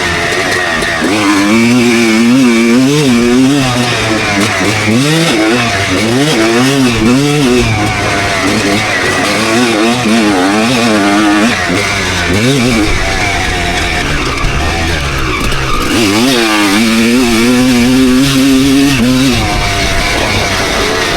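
2001 Suzuki RM250 single-cylinder two-stroke motocross engine, ridden hard with the throttle worked on and off. The pitch rises and falls in quick repeated swings, with a few longer held stretches.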